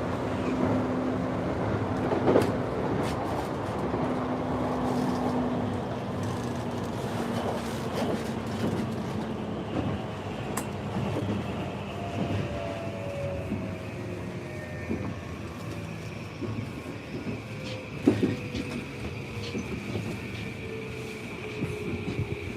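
Running noise inside an electric train car: wheels on rail with a few clicks over rail joints, and a thin motor whine that slides gently down in pitch as the train slows for a station stop.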